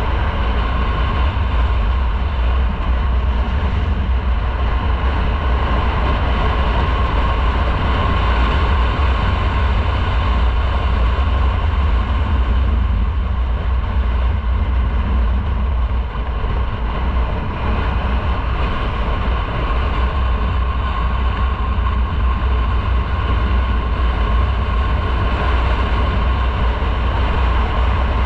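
Motorcycle riding at a steady speed: wind rushing over the microphone with a deep rumble, mixed with engine and road noise.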